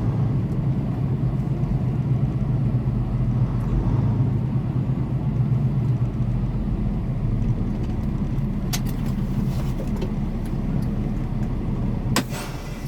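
Semi truck's diesel engine running low and steady, heard from inside the cab, with a brief hiss near the end.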